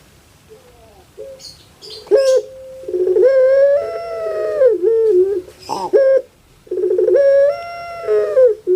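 Puter pelung dove cooing: two long drawn-out calls, each opening with a quick rolling trill and then a held note that rises slightly before falling away.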